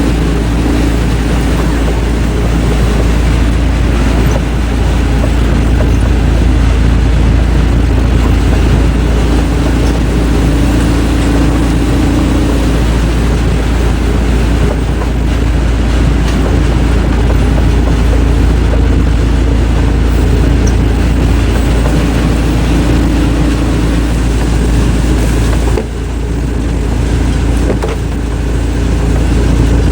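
Heavy wood-processing machinery running loudly and steadily, with a deep rumble and a steady hum. The sound drops suddenly about 26 seconds in, then picks up again.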